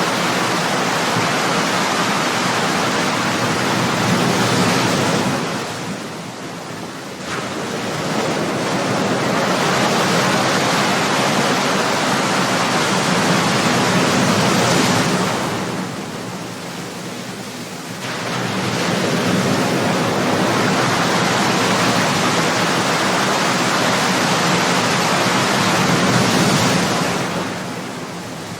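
Ocean waves breaking: a loud, continuous rushing wash of surf that swells and then eases off, dipping briefly about every ten seconds as each wave ends, three times in all.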